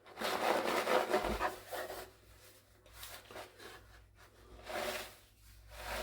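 Rustling and rubbing as an assortment of dried seeds is handled, with a long bout in the first two seconds followed by a few shorter, quieter ones.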